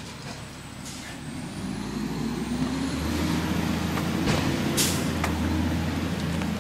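Garbage truck's engine speeding up and holding at a louder, higher running speed, with a faint rising whine above it. A short sharp hiss of air, like an air brake releasing, comes just before the five-second mark.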